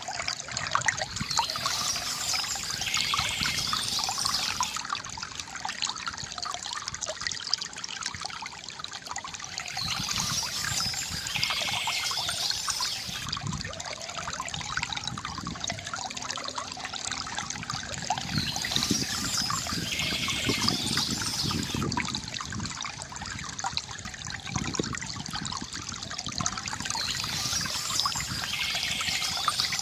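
Water trickling and splashing steadily from a bamboo fountain. Birds chirp in short spells that recur about every nine seconds, four times in all.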